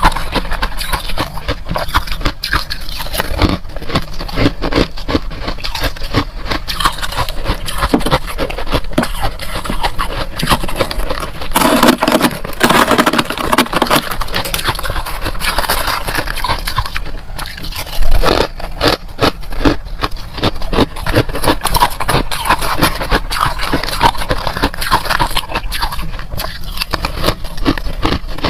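Close-miked crunching and scraping of freezer frost being bitten and chewed, a dense run of crisp crackles. It gets louder about twelve seconds in and again with a sharp crunch near two-thirds of the way through.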